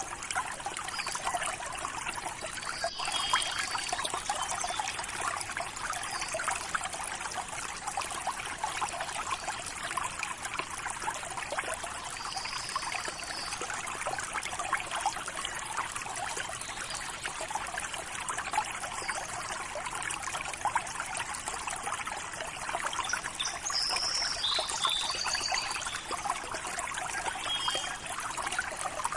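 River water running steadily with a trickling sound, with a few faint short bird chirps now and then.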